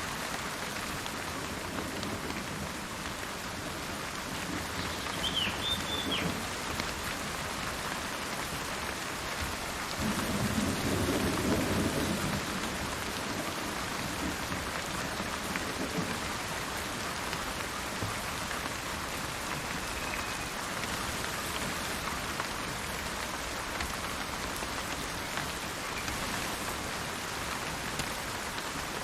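Steady rain pattering, with a low roll of thunder about ten seconds in, and a weaker rumble earlier. A bird chirps briefly a few times, around five seconds in.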